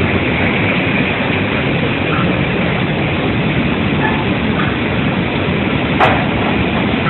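Coffee dryer running with a steady mechanical noise, and one sharp click about six seconds in.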